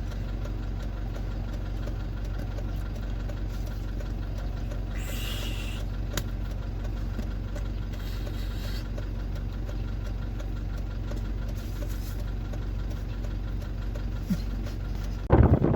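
Engine running steadily with a low, even hum. Just before the end it cuts abruptly to loud wind buffeting the microphone.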